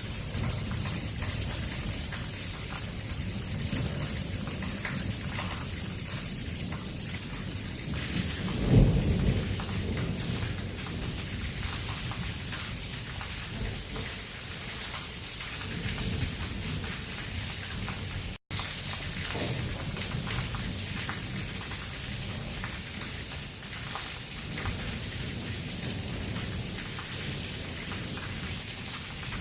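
Heavy thunderstorm rain pouring steadily, with a thunderclap and rumble about nine seconds in. The sound drops out for a split second midway.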